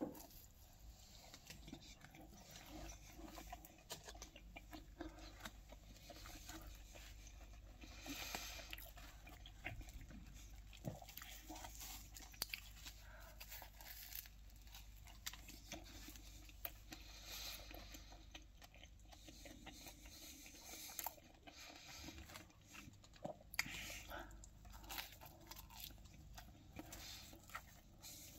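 A person biting into and chewing a slice of pizza, faint, with small irregular mouth clicks and soft crunches.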